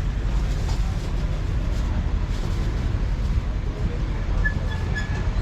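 Steady low rumble of a motorcycle ride: engine and road noise with wind on the microphone. Three short high beeps come near the end.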